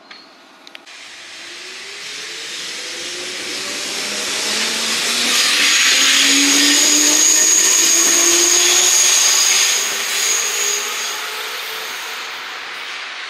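Electric train passing: the noise builds, is loudest in the middle with a high steady whine, then fades, while the motor hum rises steadily in pitch.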